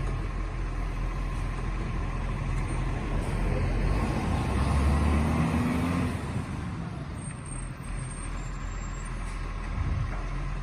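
Garbage truck's engine running steadily, getting louder for about two seconds around the middle.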